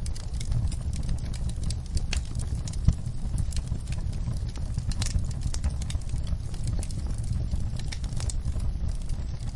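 Wood fire crackling, with irregular snaps and pops over a steady low rumble; one pop about three seconds in is the loudest.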